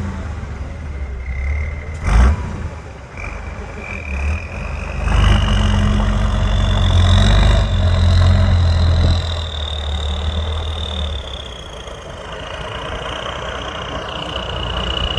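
Trial truck's engine running and revving under load, loudest for a few seconds in the middle, with a high whine that rises and then falls. A sharp knock sounds about two seconds in.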